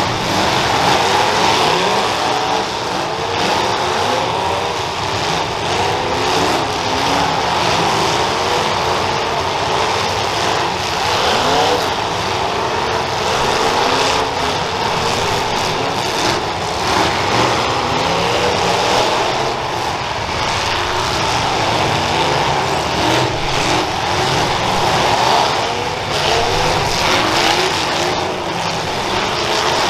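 Several demolition derby cars' engines revving hard together, their pitch rising and falling over and over, with occasional sharp knocks of cars colliding.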